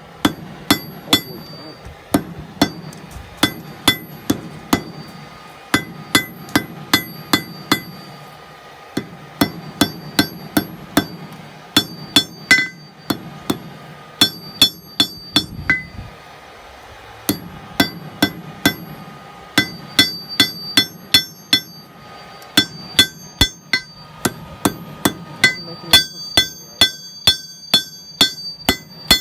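Hand hammer striking hot mild steel on an anvil in runs of quick blows, about three a second, the anvil ringing after each blow, with a few short pauses between runs.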